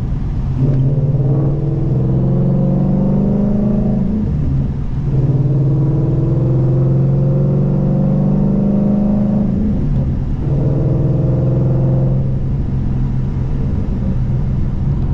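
2014 Ford Mustang GT's 5.0-litre V8 engine and exhaust pulling hard through the gears: the pitch climbs, drops briefly at a gear change about five seconds in, climbs again, drops at a second change about ten seconds in, and eases to a steadier cruise near the end.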